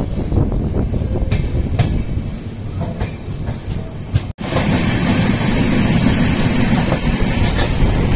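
Moving passenger train heard from an open coach doorway: a steady rumble of wheels on the rails with a few sharp clicks over rail joints. The sound drops out for an instant about four seconds in, then comes back louder, with wind noise rushing over the microphone.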